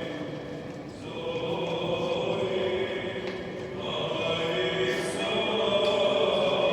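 A choir chanting in several long-held voices, the Orthodox liturgical chant of an Easter service in the Metropolitan Cathedral, swelling louder about a second in and again toward the end.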